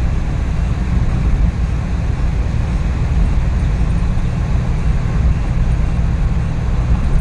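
Suzuki DA64V van heard from inside the cabin while driving: a steady low rumble of engine and road noise from its freshly rebuilt K6A three-cylinder engine.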